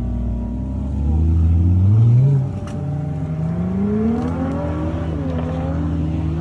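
Car engine accelerating: its pitch climbs for about two seconds, drops sharply, then climbs again more slowly before levelling off.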